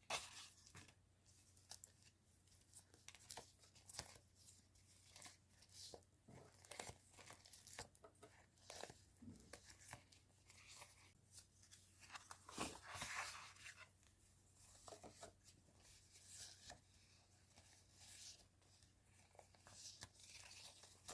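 Stationery packaging being handled and torn open: a run of short, irregular rustles, crinkles and tearing sounds from paper and plastic wrappers, with a louder stretch about twelve to fourteen seconds in.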